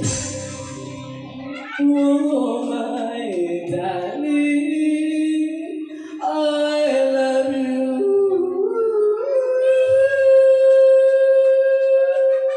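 A singing voice with music behind it at first; the backing drops out about a second and a half in and the voice carries on alone through a melodic line, ending on one long held note.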